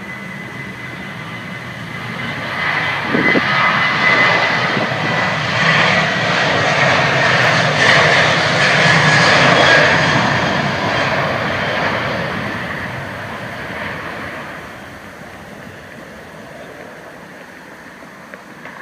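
Boeing 737-900 with CFM56 turbofan engines at takeoff power passing by. The jet noise builds to its loudest about halfway through, then fades away, with a high whine that drops slightly in pitch as it goes past.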